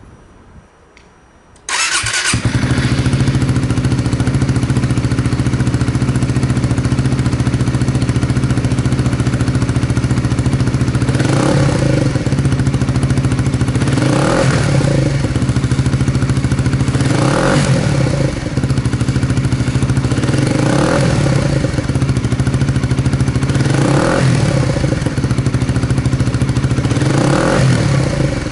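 Suzuki GSX-S125's 124 cc single-cylinder engine, breathing through a BEAMS CORSA-EVO II full exhaust system, starts about two seconds in and settles into an idle. From about halfway it is blipped briefly every three seconds or so, each blip a short rise and fall in pitch.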